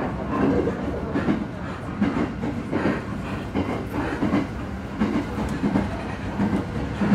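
Echigo Tokimeki Railway train heard from inside the carriage while running: a steady rumble with repeated clacks of the wheels over rail joints.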